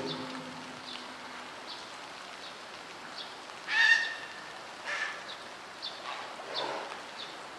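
Steady heavy rain, with a loud, short, high-pitched animal call about four seconds in and a fainter one a second later.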